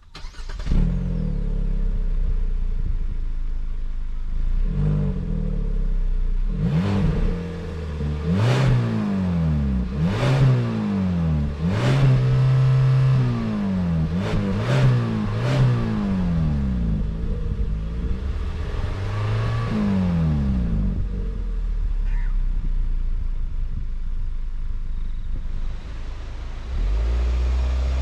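Kia Seltos four-cylinder petrol engine accelerating hard: the engine note climbs and drops back again and again at the gear changes, then settles to a steadier drone.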